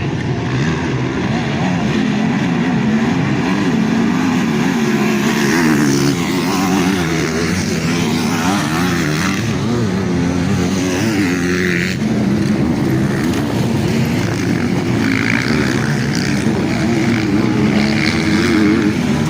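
Several motocross bikes racing, their engines revving up and down and overlapping.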